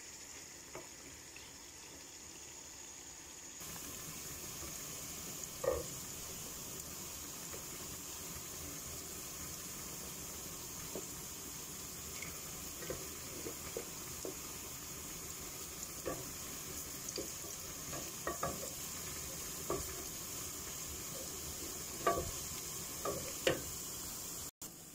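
Chopped aromatics frying in hot oil in an aluminium saucepan, with a steady sizzling hiss that comes in a few seconds in. A wooden spoon stirring them knocks and scrapes against the pan now and then, most often near the end.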